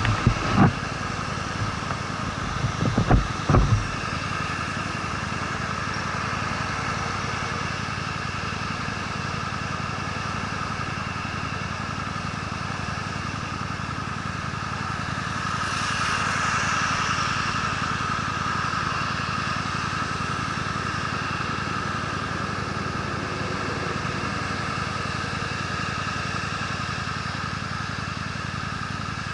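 Honda Steed V-twin motorcycle riding at a steady pace, its engine running under a continuous wash of road and wind noise. There are a few low thumps in the first four seconds, and a rush of hiss swells and fades about halfway through.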